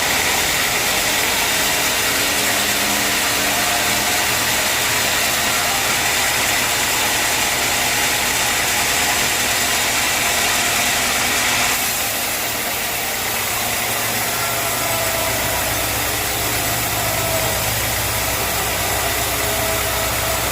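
Sawmill running steadily, with a loud machine drone and a high hiss of sawing. The hiss drops off suddenly about twelve seconds in, and a low hum comes up a few seconds later.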